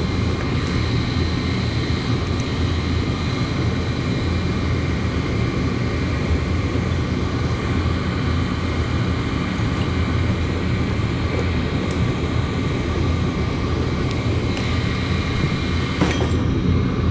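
Rheem gas furnace running, a steady rumble from the burners and blower with a faint high whine over it, and a single click about sixteen seconds in.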